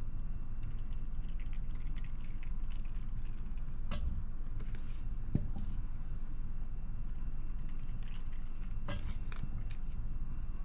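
Liquid tire sealant being squeezed into a tire through its open valve stem, a few soft squelches and clicks over a steady low hum.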